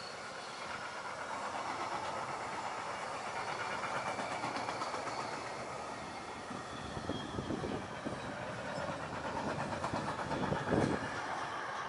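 Freight train wagons, container flats then covered sliding-wall wagons, rolling past: a steady rumble and rattle of steel wheels on rail, with a few louder clickety-clack knocks of wheelsets in the second half. The loudest knock comes as the last wagon goes by near the end, and the sound then begins to fade.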